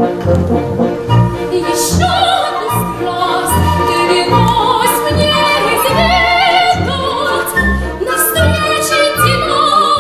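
A woman singing in operatic style with vibrato, over an orchestral backing with a steady bass beat; the voice comes in about two seconds in.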